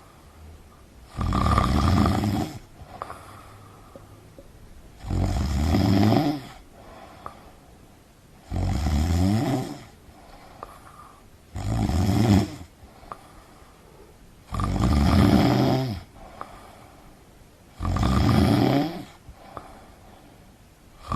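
Snoring in a slow, even rhythm: six snores about three seconds apart, each lasting a little over a second and several sliding down in pitch at the end, with much quieter stretches between.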